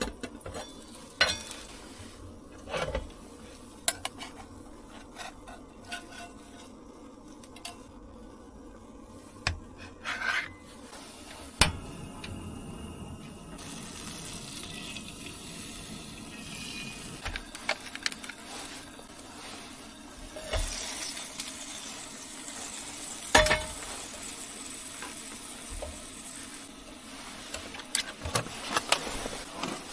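Pots, pans and utensils clinking and knocking against each other, with a steady sizzle of food frying in a pan from about halfway through.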